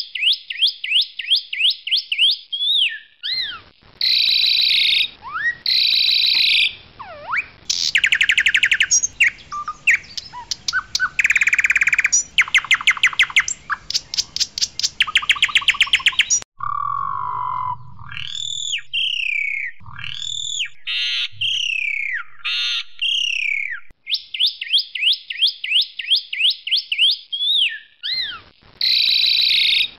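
Asian pied starling (jalak suren) singing loudly: runs of sharp rising chirps, buzzy rapid rattles and clear sliding whistles, phrase after phrase, with the opening phrase coming back near the end.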